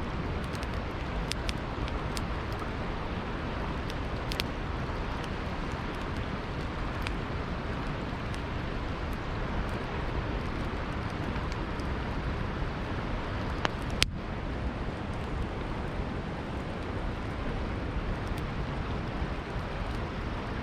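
Steady rushing of a river under a campfire crackling with scattered sharp pops, one louder pop about 14 seconds in.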